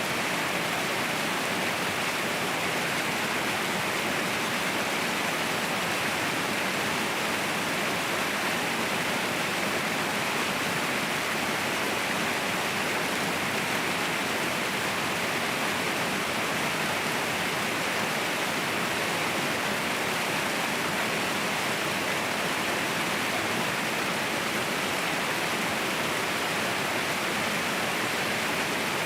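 Mountain waterfall roaring: a steady, unbroken rush of falling water, even in level throughout.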